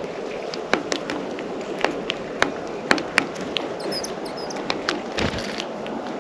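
Irregular sharp clicks and taps of birds pecking and hopping on a bird feeder, with a few short, faint, high chirps about four seconds in, over steady low background noise.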